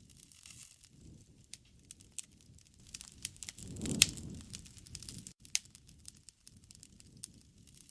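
Wood fire burning: irregular crackles and sharp pops over a low flame rumble. About four seconds in the flames swell and one loud pop stands out.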